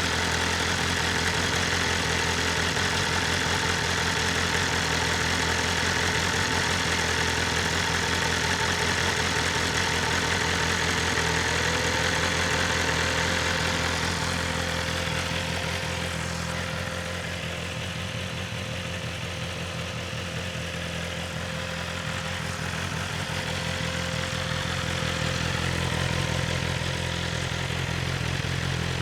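BMW S1000RR's inline-four engine idling steadily through its stock Akrapovic exhaust, a little quieter through the middle, with no pops or bangs.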